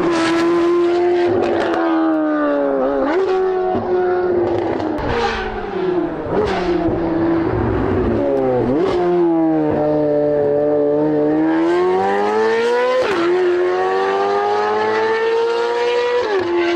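Chevrolet C8 Corvette Z06's flat-plane-crank 5.5-litre LT6 V8 running at high revs through an aftermarket exhaust. Its pitch climbs and falls, with four sharp drops at gear changes.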